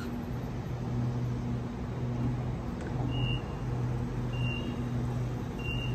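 Sydney Trains double-deck electric train standing at the platform, its equipment giving a steady low hum. About three seconds in, short high beeps begin, repeating a little more than once a second, as the doors open.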